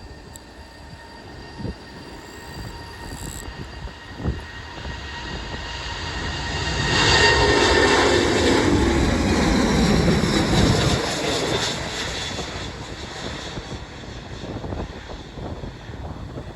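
Airbus A330-900 airliner's Rolls-Royce Trent 7000 turbofan engines passing by: a rushing jet noise with a steady high whine builds up, is loudest for several seconds in the middle, then fades away.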